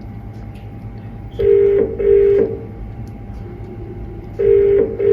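British telephone ringing tone heard on an outgoing call through a phone's loudspeaker: the double-ring pattern, two short rings close together, sounds twice about three seconds apart while the call waits to be answered.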